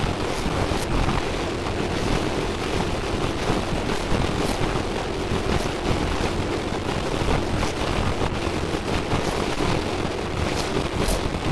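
Steady rushing noise with scattered faint crackles, holding an even level throughout.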